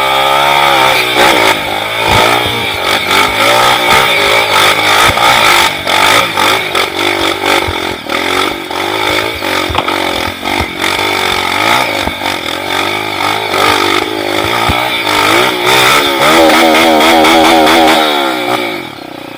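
Off-road motorcycle engine running loud, its revs rising and falling as the bike rides, dying away near the end.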